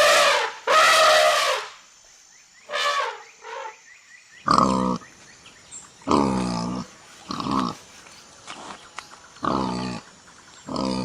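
Calls of a large wild animal: two loud, harsh calls at first, then a run of short, deep grunting calls repeated every second or two.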